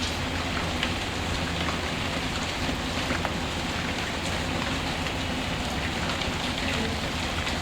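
Steady rain falling, mixed with scattered small crackles and ticks from a wood fire.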